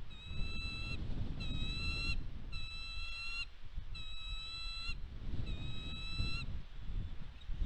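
A bird calling five times in a row, each call a long, flat, high-pitched note about a second apart, over a steady low rumble.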